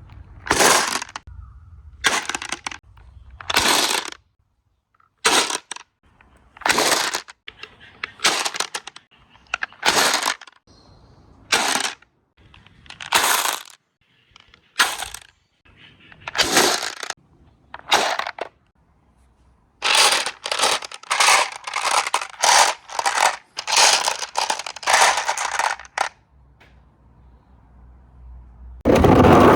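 Marbles clattering down a four-tier marble run slope in a string of short, sharp rattling runs about a second or two apart. Several come in quick succession about two-thirds of the way through, and a louder, fuller clatter follows near the end.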